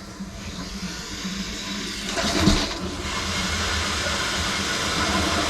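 Water rushing from the open hot tap into a laundry tub, building up and running strongly from about two seconds in, as the new water heater's tank fills.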